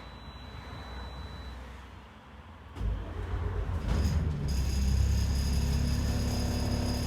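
ADL Enviro 400 double-decker bus engine running low for the first few seconds, then picking up about three seconds in as the bus accelerates. A steady high whine from the drivetrain joins in about a second and a half later and stays with the engine.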